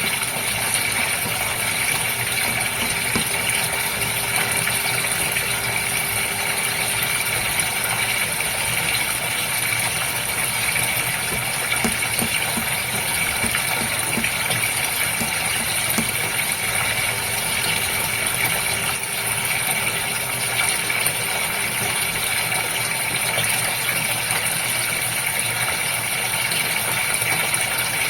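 Goldfish aquarium pump running with moving water, a constant hum and hiss that holds steady without a break.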